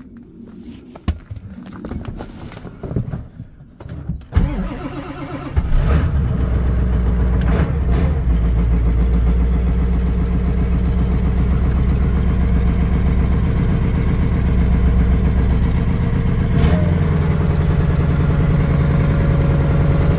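Ford 7.3-litre Power Stroke V8 turbo-diesel cranking about four seconds in, catching after a second or so, then idling steadily. It is a cold start at about 2 °F with glow plugs that do not work. A few knocks and clicks come before the cranking.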